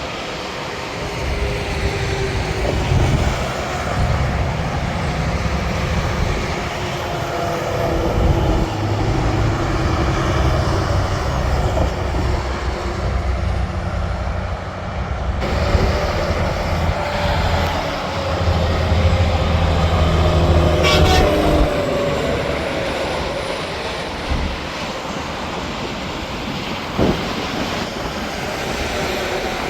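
Highway traffic of heavy trucks going by: a continuous deep rumble, with the tyre and engine tones of passing trucks sliding down in pitch as each one goes past.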